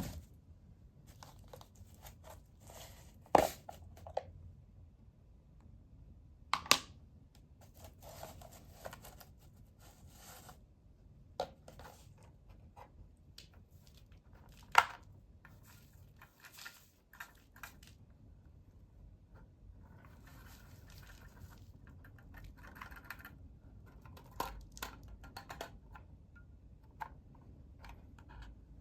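Paper scraps crackling and rustling as a Roomba 505 robot vacuum sweeps them up, with a few sharp knocks standing out above them.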